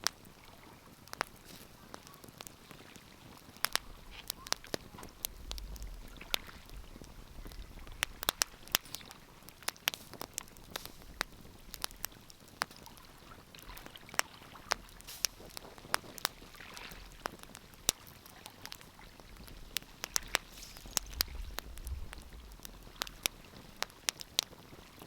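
Wood fire crackling in a fireplace, with irregular sharp pops and snaps over a soft hiss. A low rumble swells twice, about five seconds in and again near the end.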